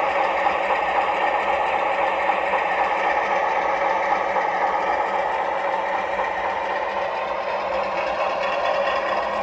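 O gauge model locomotive running on track: a steady mechanical whir and rattle from its motor and wheels.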